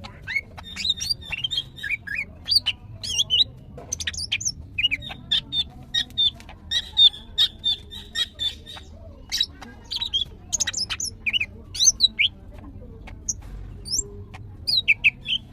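Female green leafbird singing a fast, unbroken run of chirps and trills, with stretches of rapid repeated notes: the high-energy calling of a female in breeding condition, the kind used to provoke males into singing.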